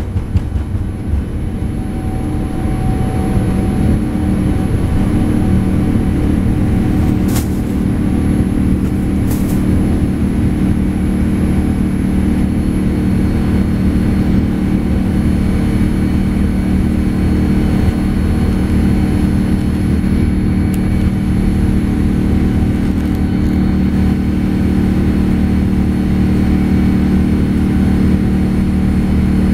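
Boeing 787 cabin noise during takeoff: the jet engines at takeoff power with a steady low roar and rumble, building over the first few seconds and then holding level. Two short clicks sound about seven and nine seconds in.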